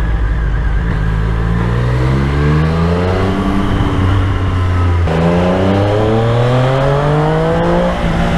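Triumph Street Triple 765's three-cylinder engine accelerating hard, its pitch rising, dropping at an upshift about five seconds in, then rising again.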